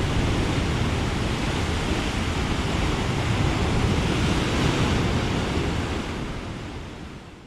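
Heavy typhoon swell breaking on a rocky shore: a steady wash of surf with wind on the microphone, fading out over the last second or two.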